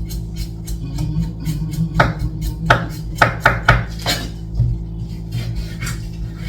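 Kitchen utensils knocking and clicking against a cutting board and dishes during food preparation. The strokes are irregular, with a run of sharper knocks about two to four seconds in.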